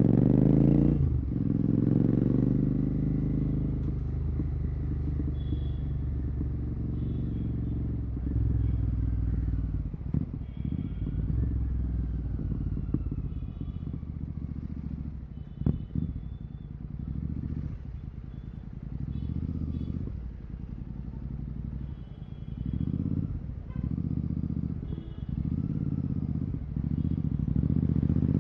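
Royal Enfield Continental GT 650's parallel-twin engine through Red Rooster aftermarket silencers with the dB killers removed: the revs fall away in the first couple of seconds as the bike slows, then it runs low and steady at low speed, easing off and picking up again several times.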